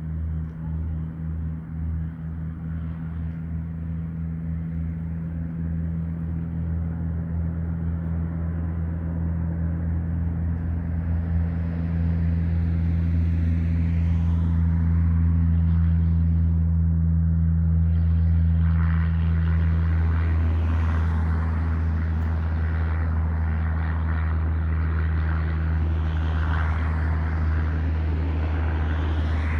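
Light aircraft's piston engine and propeller running with a steady low drone, pulsing at first, then growing louder over the first half and holding; a rougher rushing noise joins about two-thirds of the way in.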